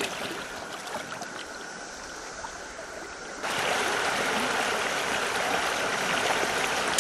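River water flowing and trickling, with a few faint splashes. About three and a half seconds in it steps up abruptly to a louder, steady rush.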